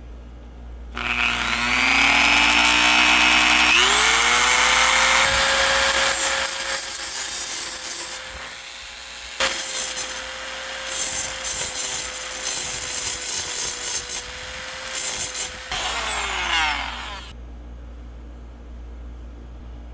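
A handheld power tool spins up with a rising whine and runs at a steady pitch. It grinds loudly against the metal licence plate, first in one long pass, then in a string of short passes. It then winds down and stops.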